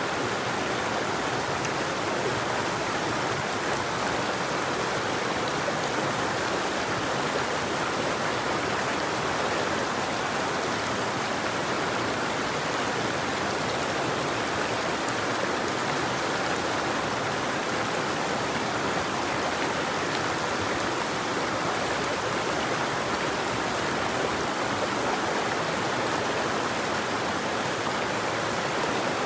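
River water flowing: a steady, unbroken rush with no birdsong.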